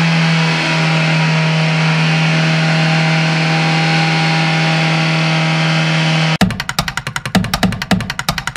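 Toyota Avanza engine running steadily in the open engine bay after an overhaul, with a strong even hum. About six and a half seconds in it cuts off abruptly and upbeat electronic music with drums starts.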